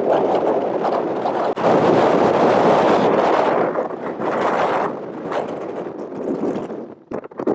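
Strong gusty wind buffeting the microphone, a rough rushing noise that swells and eases and briefly drops away near the end.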